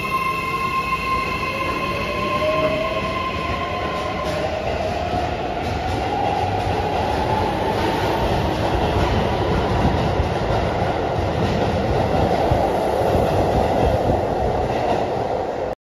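Keihan electric commuter train pulling out of an underground station. Its motors' whine climbs in pitch as it gathers speed, under a growing rumble and clatter of wheels on rail. The sound cuts off abruptly just before the end.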